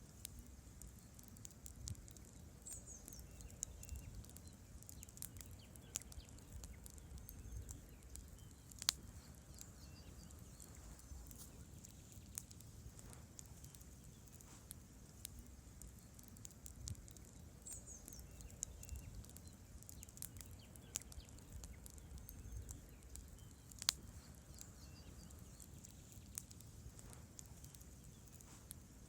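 Wood campfire burning with a low, steady rumble and frequent small crackles, with two sharper pops from the logs, about 9 and 24 seconds in.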